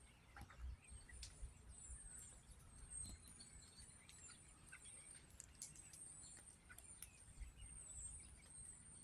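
A flock of birds calling faintly: many short, very high, thin calls overlapping and repeating all the way through, with a few scattered light ticks among them.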